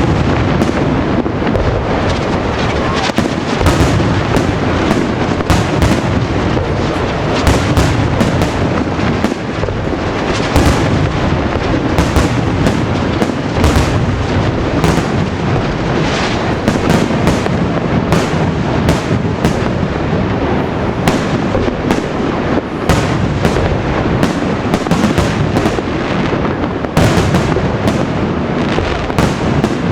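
Fireworks display going off in a dense, continuous barrage: many bursts overlap with no pause between them.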